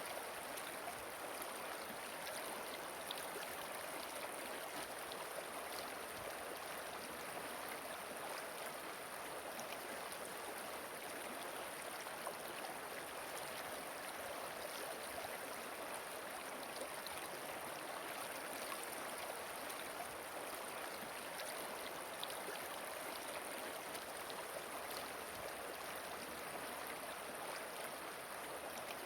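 Flowing river water, a steady, even rush without pause.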